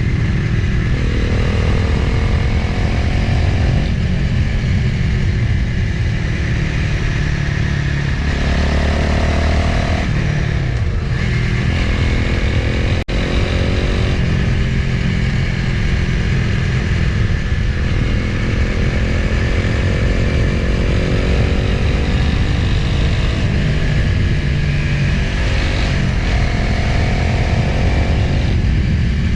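Motorcycle engine under way, its pitch climbing through the gears and dropping at each shift several times, with wind noise on the microphone.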